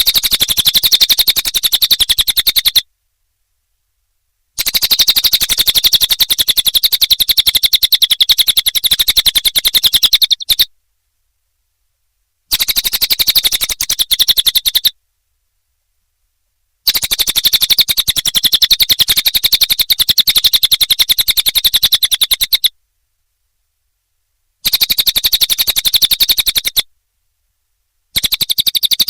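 Cililin bird song from a looped masteran recording: fast trills of sharp, high repeated notes. They come in bouts of two to six seconds, separated by silent gaps of about two seconds.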